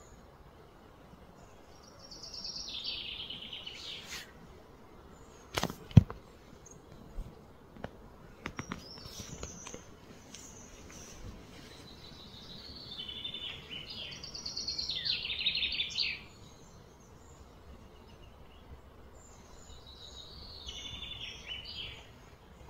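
A songbird singing three phrases of fast, falling trills. A few sharp knocks come through as well, the loudest about six seconds in.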